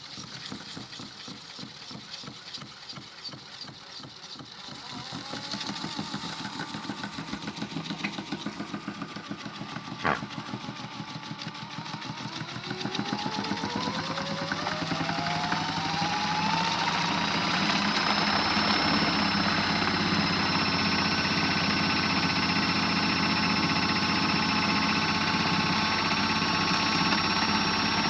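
Modified Miele W1 toy washing machine's small motor spinning a drum overloaded with snow: an uneven pulsing at first, with one sharp click, then a whine that rises in pitch as the drum speeds up and settles into a steady, louder high spin.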